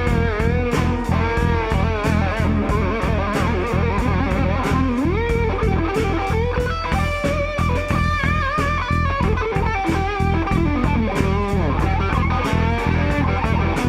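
Rock band playing live with no vocals: an electric guitar plays a lead line with string bends and vibrato, and slides up about five seconds in, over bass guitar and a steady, even drum beat.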